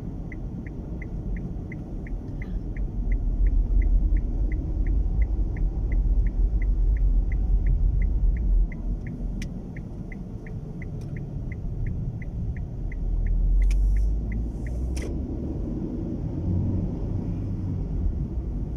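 Low rumble of a car driving, heard from inside the cabin, swelling twice as strong wind gusts push against the car. A turn-signal indicator ticks steadily, about two to three ticks a second, and stops about two-thirds of the way through, followed by two sharp clicks.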